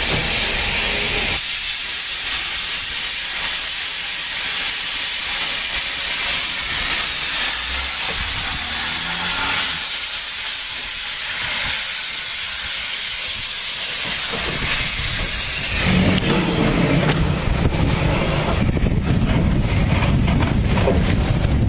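Steam locomotive venting steam with a loud, steady high-pitched hiss that stops suddenly about sixteen seconds in, leaving a low rumble.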